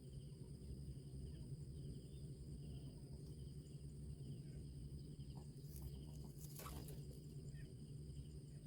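Faint outdoor insect chorus: steady high-pitched trilling with a soft chirp repeating about twice a second, over a low hum. A brief rustle comes about six and a half seconds in.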